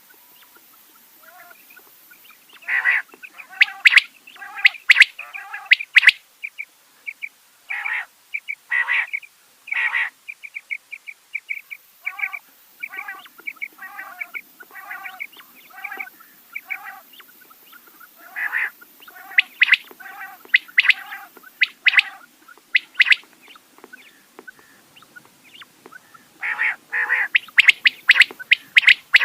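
Rain quail calling: short, sharp notes repeated in runs, with the loudest, fastest run near the end.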